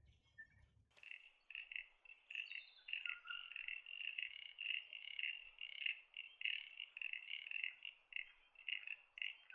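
Frogs calling in a steady chorus of short, pulsed calls repeated several times a second, starting suddenly about a second in.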